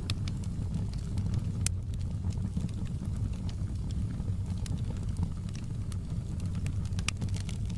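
Outdoor campfire burning: a steady low rumble with scattered sharp crackles and pops.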